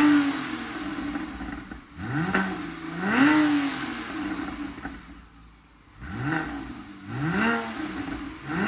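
Porsche 987.2 Boxster flat-six revved in a series of short throttle blips through a Fister sport exhaust, each rev rising quickly and falling back to idle, about five in all with a quieter lull in the middle.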